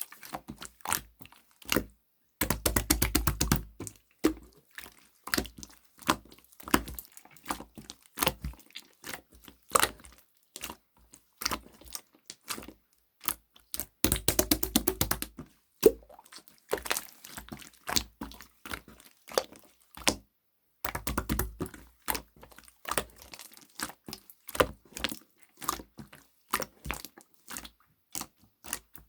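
Jelly-textured slime being squished and pressed by hand, giving sharp sticky clicks and pops, with three bursts of rapid crackling clicks.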